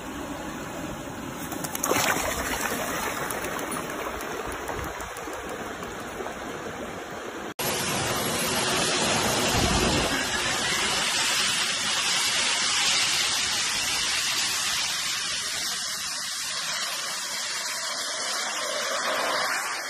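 Jet suit's small gas-turbine engines running with a loud, steady rushing roar as the wearer lifts off and flies. It starts abruptly about seven and a half seconds in, after a fainter steady rushing noise.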